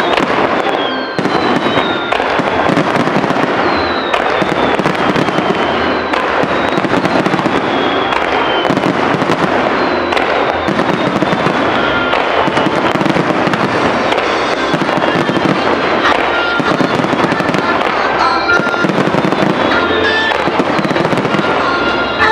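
Aerial fireworks display: a dense, continuous barrage of shell bursts and crackling, with several falling whistles among them.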